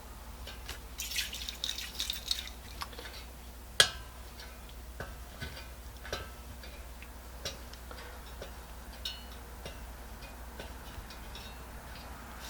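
Scattered light clicks and ticks: a crackly cluster in the first few seconds, one sharp click about four seconds in, then sparse single ticks.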